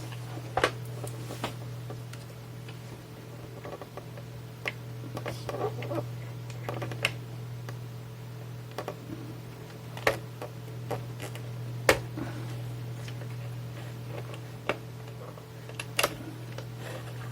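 Irregular clicks and small knocks from the parts of an opened Tascam Portastudio 414 MKII cassette multitrack being handled and taken apart, over a steady low hum.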